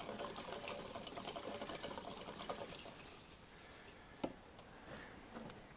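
Gasoline pouring from a can into a snowmobile's fuel tank, a steady liquid pour that tapers off about halfway through, then a single sharp click.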